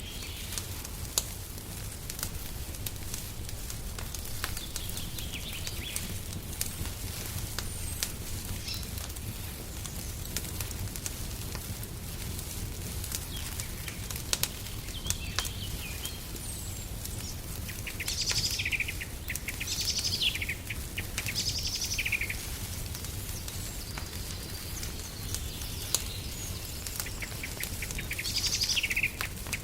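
Wood fire crackling with scattered sharp pops over a low steady rumble, while songbirds call and sing; a run of trilled bird phrases comes about two-thirds of the way in and again near the end.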